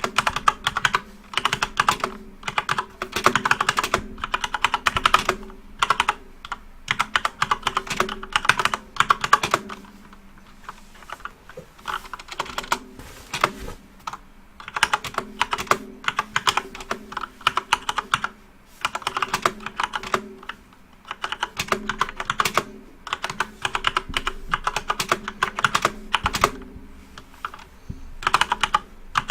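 Typing on a backlit computer keyboard: quick runs of key clicks in bursts of a few seconds, broken by short pauses, the longest about ten seconds in.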